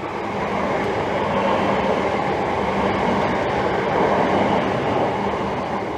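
Class 379 Electrostar electric multiple unit passing through, a steady rumble of wheels on rail with a low hum, growing to its loudest about four seconds in and easing off near the end.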